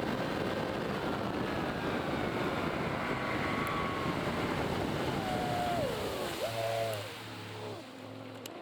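Boat's outboard motor running at speed under a steady rush of wind and water, then throttled back: its pitch falls over a few seconds and it settles to a lower, quieter idle near the end.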